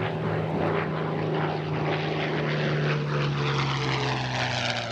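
Piston-engined WWII fighter flying past, its propeller engine running steadily, with the engine pitch dropping slightly as it goes by.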